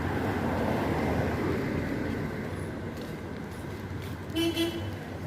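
Road traffic running past, a vehicle swelling by in the first couple of seconds, then two short car-horn beeps near the end.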